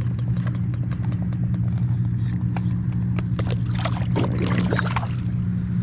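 Steady low motor hum with scattered light clicks, and a brief wavering voice-like call about four seconds in.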